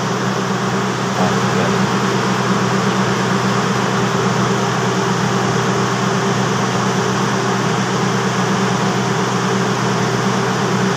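Steady mechanical hum with a low drone from a passenger train standing at the platform, its engine and coach air-conditioning units running without a break.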